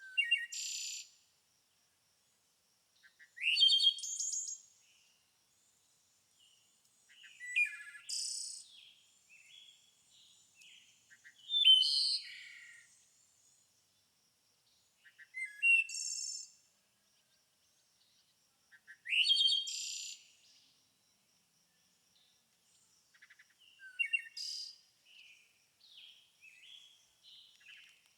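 A songbird singing short, varied song phrases, about seven of them spaced roughly four seconds apart, with softer notes in between.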